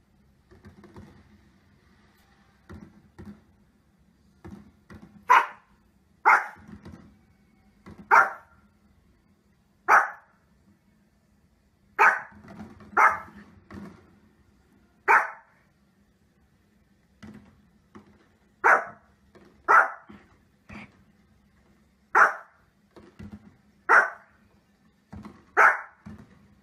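A small fluffy dog barking: about thirteen sharp, high single barks, irregularly spaced one to two seconds apart, with softer short barks between them.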